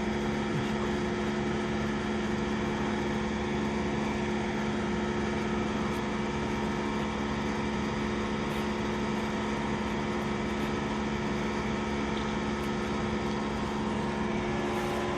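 Steady hum of an idling engine, holding one unchanging pitch throughout.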